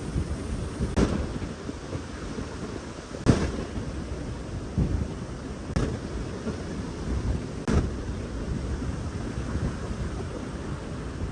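Wind rumbling on the microphone, broken by four sharp cracks about two seconds apart, the second one the loudest.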